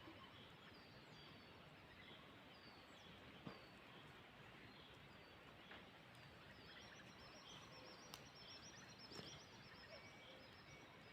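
Near silence with faint birdsong: a small bird repeating short high chirps, then a quick high trill through the second half. A few faint clicks.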